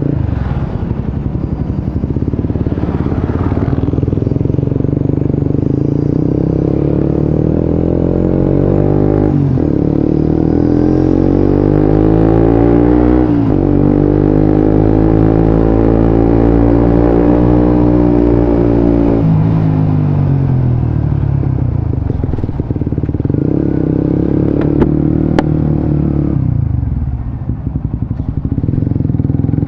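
Suzuki GSX-S150's 150 cc single-cylinder engine running through a Quinze Big Volume aftermarket exhaust while riding. The exhaust note rises in pitch under acceleration, with sudden breaks at gear changes about 9 and 13 seconds in, holds high, then falls away as the throttle closes near 19 seconds.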